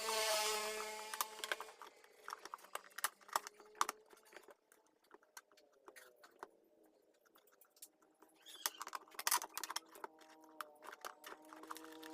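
Small hand-held rotary tool (mini drill) running, its whine holding a slowly drifting pitch, with a burst of cutting hiss in the first second. Frequent light clicks and taps of parts being handled sound over it.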